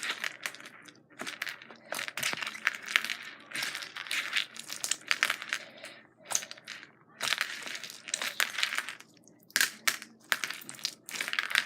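Jiggly slime mixed with beads being squished and stretched by hand: irregular bursts of squishing with many small clicks, a few bursts a second with short pauses between them.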